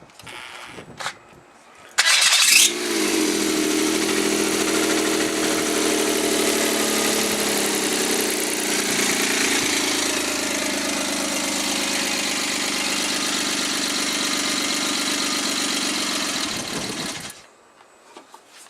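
Overhauled Suzuki K6A 660 cc three-cylinder turbo engine cranking briefly and catching about two seconds in, then idling steadily at an even pitch for about fourteen seconds before being switched off and stopping abruptly.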